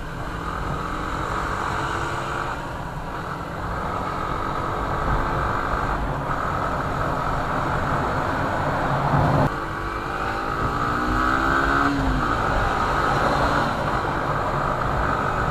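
Engine of a moving road vehicle over steady road and wind noise, its pitch climbing twice as it picks up speed, with a brief sudden dip in between about nine seconds in.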